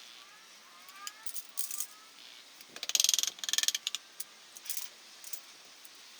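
Metallic clicking and rattling of hand tools being worked, loudest in a burst of rapid clicks lasting about a second, from about three seconds in, with scattered single clicks before and after.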